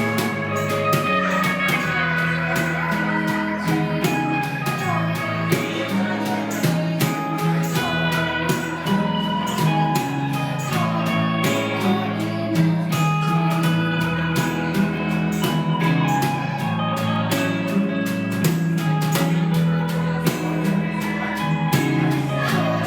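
Live jazz band playing an instrumental passage: guitar over a shifting bass line, with a steady beat of high ticks.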